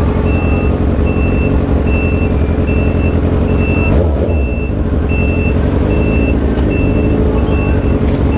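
A vehicle engine rumbles steadily under a repeating high electronic beep, about one and a half beeps a second.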